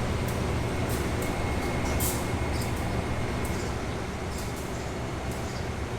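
Passenger train running: a steady low rumble from the moving carriage with repeated light clicks and rattles.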